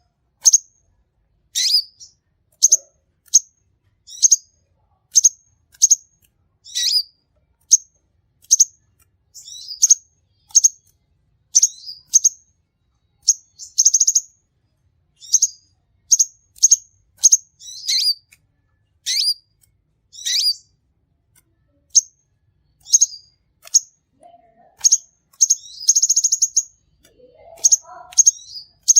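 Sunbird singing vigorously: a run of short, high, sharp chirps about once a second, with a couple of brief rapid trills mixed in.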